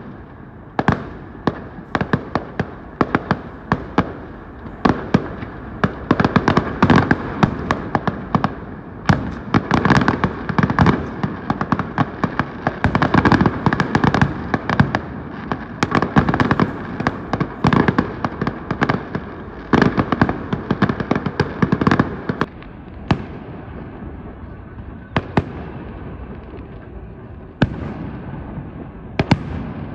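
Large bonfire burning, with a steady rush of flame and many sharp cracks and pops from the burning wood. The popping is densest in the middle and thins out near the end.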